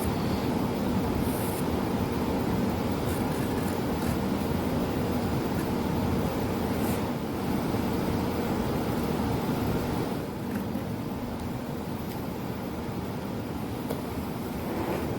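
Power tool running steadily, easing a little about ten seconds in.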